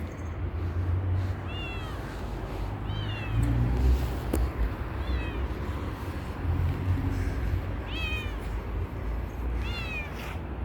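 A cat meowing five times in short, high-pitched calls that fall in pitch, over a low rumble.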